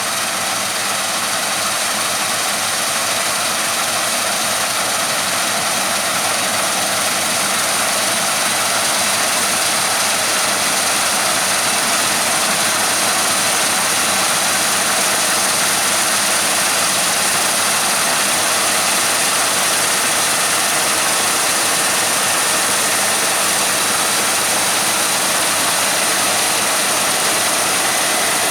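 Heavy farm machinery running steadily under a dense mechanical hiss, getting slightly louder over the first few seconds.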